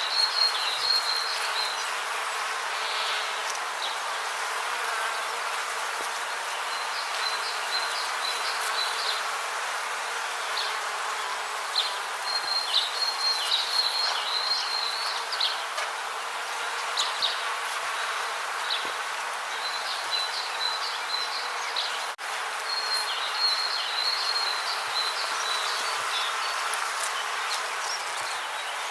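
Rainforest ambience: insects calling in repeated trains of rapid, high chirps a few seconds long, over a steady hiss.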